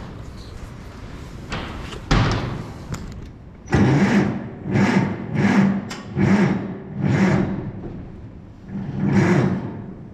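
Farmall Super M's starter cranking the engine slowly in labouring surges, roughly one every three-quarters of a second, after a brief first try; the engine never catches because the battery is too weak to turn it over.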